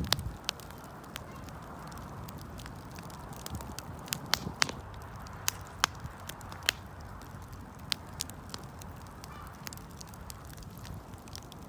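Wood campfire crackling: irregular sharp pops and snaps over a low steady rustle of the burning fire, with a few louder pops around the middle.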